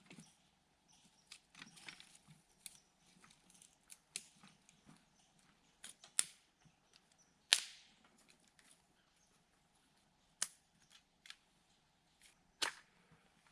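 Wood campfire crackling: scattered small ticks and a few sharp, loud pops.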